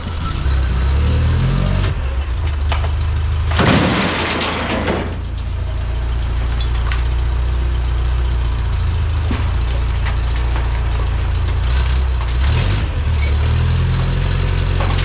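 Takeuchi skid steer's diesel engine running and revving while loading scrap metal, its pitch rising twice. A loud burst of rushing, clattering noise lasts about a second and a half, starting about four seconds in.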